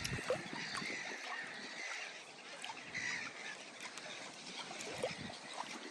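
Faint, scattered short calls of waterfowl across the lake, honking calls like geese, over a light background hiss.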